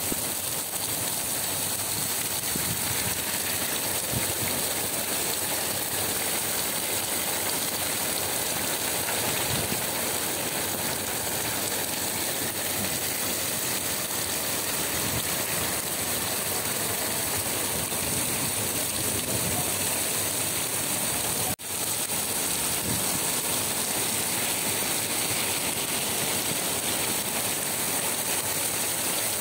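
Heavy rain falling, a steady dense hiss, with a momentary break about two-thirds of the way through.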